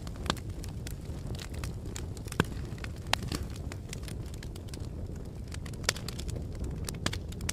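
Fire crackling: a steady low rumble of burning with irregular sharp pops and snaps, a few louder ones standing out.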